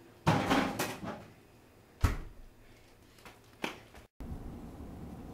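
Household handling noises: a rustling burst near the start, a sharp thud about two seconds in and a smaller click a second and a half later, like a door or cupboard being shut.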